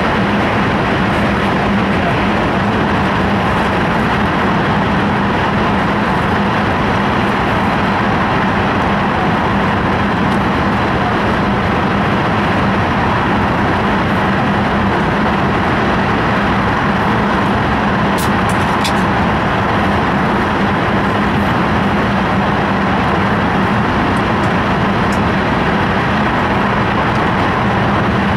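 Cabin noise inside an E5 series Shinkansen running at speed: a steady loud rush with a constant low hum underneath. A few light ticks come about two-thirds of the way through.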